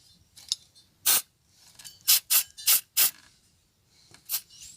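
WD-40 aerosol can sprayed in about six short squirts onto the gear-shift linkage arms of a Ford Fiesta's gearbox, to lubricate joints that are loose and dried out. The squirts come in a cluster around the middle and once more near the end.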